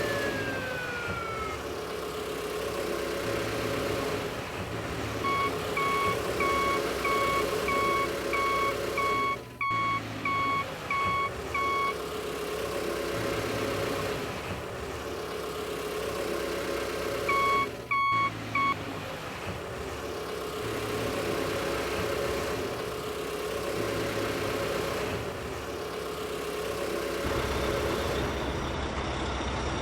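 Truck engine sound effect running steadily under a reversing alarm that beeps evenly, a little under two beeps a second for about seven seconds, then three beeps more later on. At the start a falling siren wail dies away.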